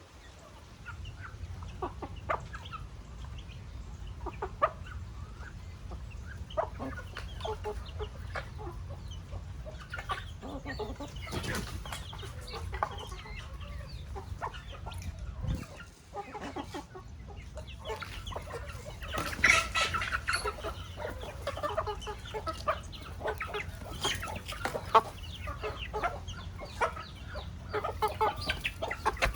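A flock of chickens clucking continually, many short calls overlapping, with a louder burst of squawking about two-thirds of the way through.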